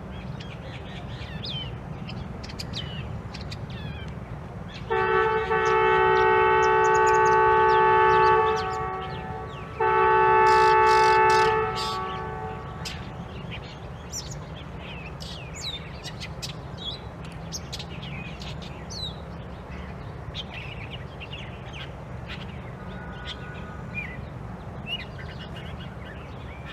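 Long-tailed shrike (pentet) and other birds giving short, scattered chirps and whistles over a steady low background hum. About five seconds in and again about ten seconds in, two long, steady, horn-like tones, the first about three seconds long and the second about two, sound louder than the birds.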